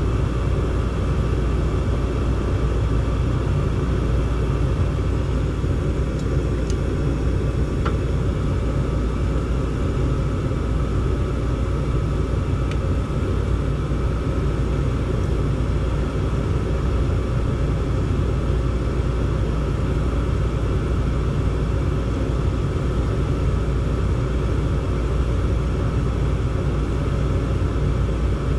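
Gas furnace running: a steady low rumble with a faint steady whine above it and a couple of faint ticks.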